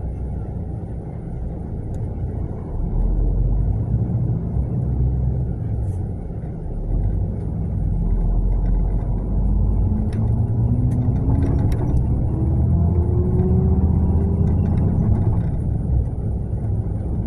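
Mercedes-Benz coach running with a steady low rumble. From about nine seconds in, a whine rises steadily in pitch for several seconds as the bus gathers speed, with a few clicks and rattles along the way.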